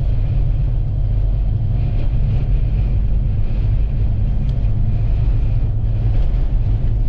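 Steady low rumble of a vehicle driving on the highway, from its engine, tyres and the wind, with no sudden sounds.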